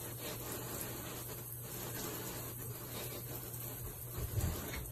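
Shower water running: a steady hiss of spray, with a soft low bump about four and a half seconds in.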